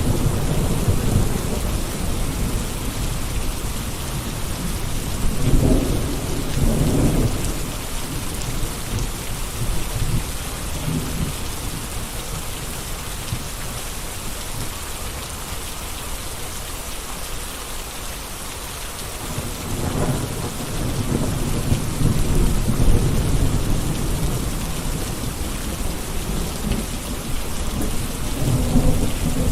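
Gentle rain falling steadily, with deeper, louder swells about five seconds in and again from about twenty seconds in, and a quieter lull between.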